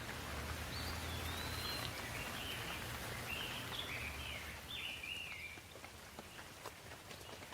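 Steady rain falling, with single drops ticking sharply toward the end. A bird calls repeatedly in short chirping phrases over the rain for the first few seconds.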